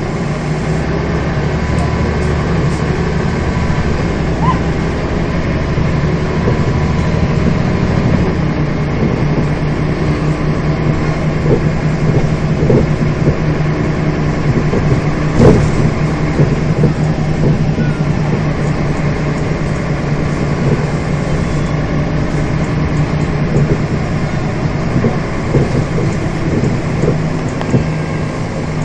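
Scania bus's diesel engine running steadily on the move, heard from on board, with body rattles and clicks and one sharper knock about fifteen seconds in.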